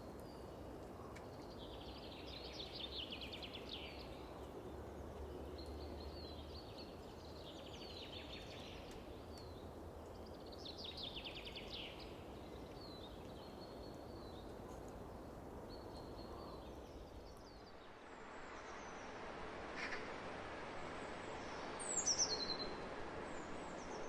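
Songbird singing short repeated phrases every couple of seconds over a steady hiss of wind across open fields. After about eighteen seconds the song stops and the hiss broadens. Near the end a single loud, sharp falling call rings out.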